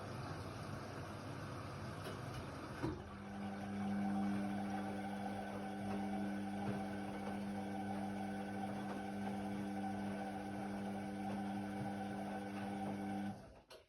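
Indesit WIDL 106 washer-dryer running. A click about three seconds in, then a steady electric hum that cuts off abruptly just before the end.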